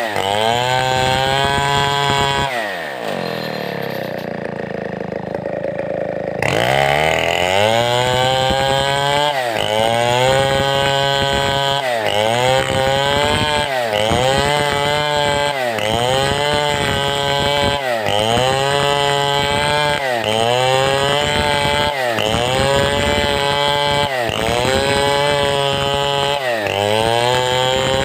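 Big two-stroke chainsaw of the Stihl 070 type cutting timber at high revs. About three seconds in it drops to idle for a few seconds, then revs back up. Its pitch then sags and recovers about every one and a half seconds as the chain bites into the wood.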